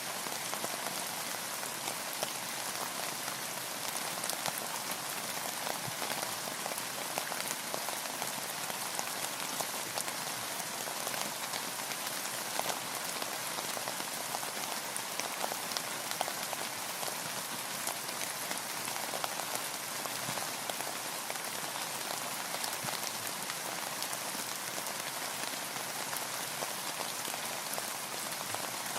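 Steady rain falling on a boat floating on the water: an even hiss dotted with many fine raindrop ticks.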